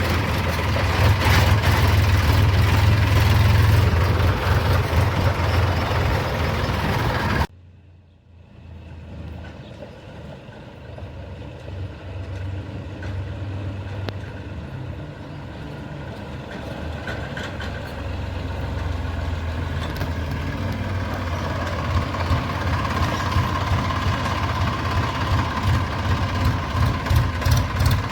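Tractor engine running. It cuts off suddenly about seven seconds in, then an engine sound builds back gradually and grows louder and more pulsing near the end.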